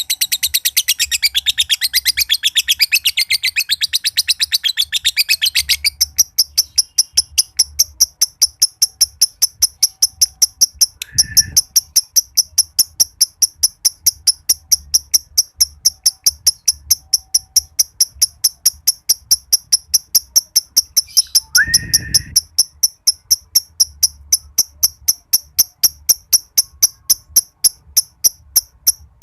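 Green lovebird chattering in a long, dense trill (its 'ngekek' song) for about six seconds, then switching to a steady run of sharp ticks, about four a second. Twice a brief lower call with a thump breaks in, near the middle and again about three quarters through.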